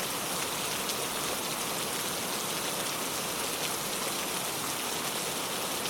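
Steady rainfall: an even hiss of rain with the patter of individual drops hitting a surface, no thunder.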